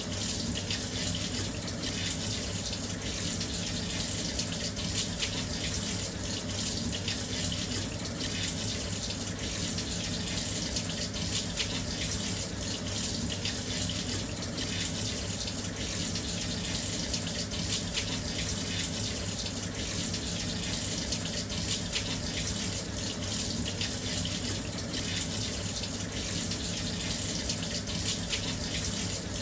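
Washing machine filling with water: a steady, unbroken rush of water flowing into the drum, with a faint low hum beneath.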